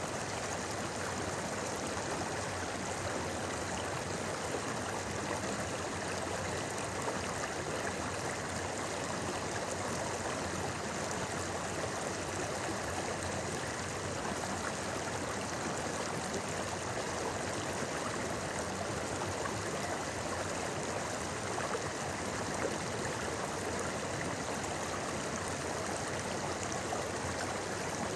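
A river murmuring, its running water making a steady, even rush with no breaks or changes.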